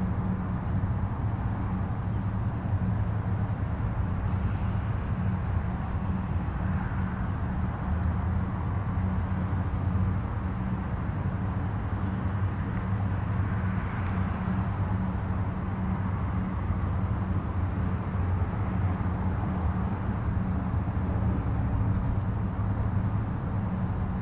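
Distant highway traffic: a steady low rumble of many vehicles and tyres, with passing vehicles swelling slightly now and then, and a faint high rapid pulsing, like insects, over it.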